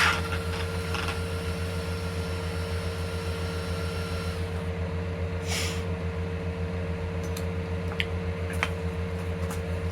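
Steady low mechanical hum with a fast flutter and a steady mid tone, with a few faint clicks in the second half.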